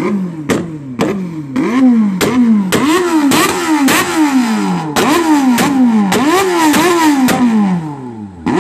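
Sport motorcycle engine being revved in short, repeated throttle blips, about two a second: each blip starts with a sharp snap, the pitch climbs quickly and then sinks as the revs drop. The blipping pauses briefly near the end, then starts again.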